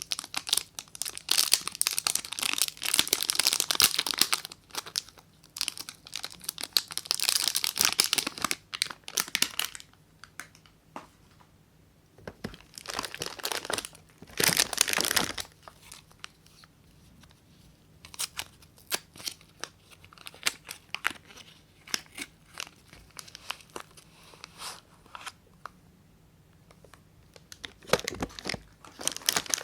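A soap bar's wrapper being torn open and crinkled by hand, in several bursts of tearing and crackling with quieter stretches of small crinkles and clicks between them.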